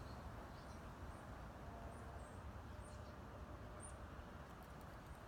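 Quiet outdoor background with a low steady rumble and faint, high, short bird chirps about once a second.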